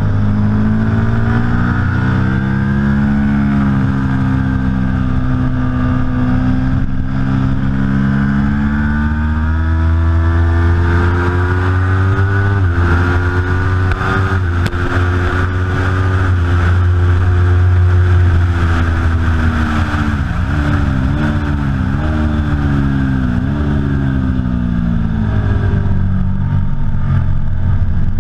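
Aprilia Tuono V4 Factory's V4 engine being ridden hard, its pitch climbing and falling with throttle and gear changes. A little past two-thirds through come three quick downshifts, each a short dip and jump in pitch, before it settles into steadier running near the end.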